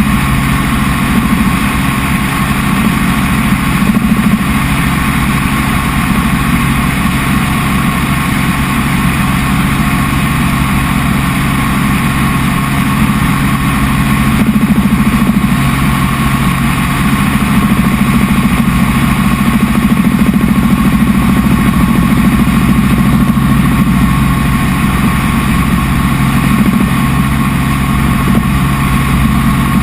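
Helicopter in steady flight: a constant engine and rotor drone with a steady whine above it, unchanging throughout.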